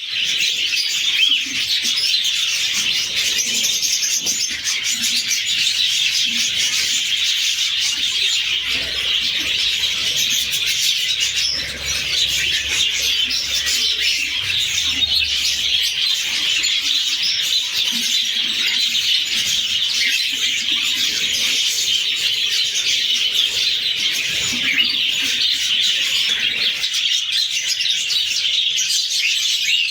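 Budgerigars chattering and chirping without a break, many calls overlapping.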